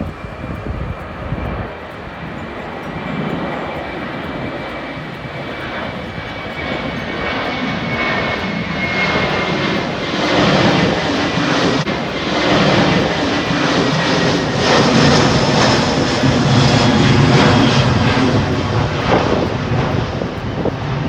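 Jet airliner passing low overhead. Its engine noise builds steadily louder as it approaches, and a high whine above it slides slowly down in pitch.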